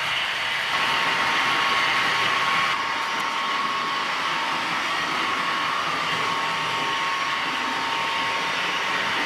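Model V200 diesel locomotive running on a model railway layout with a steady whirring hum. A faint steady tone comes in just under a second in, and the sound is a little louder for the first few seconds.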